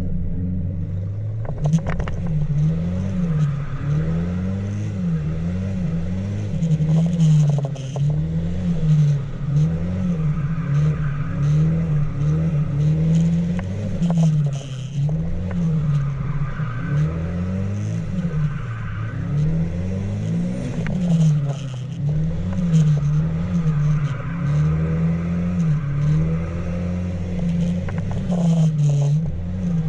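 A truck's engine revving up and down over and over, about once a second, with the throttle worked repeatedly as it drifts.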